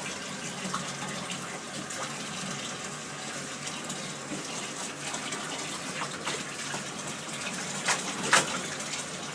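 Water running steadily from a tap into a bathtub, with two short sharp sounds near the end.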